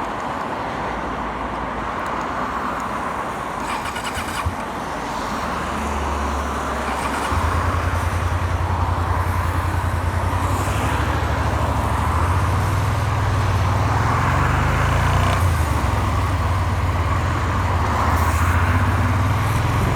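Suzuki SV400 V-twin motorcycle engine running under way, with wind and road noise. The engine note steps up and grows louder about a third of the way in, then holds with small changes in pitch.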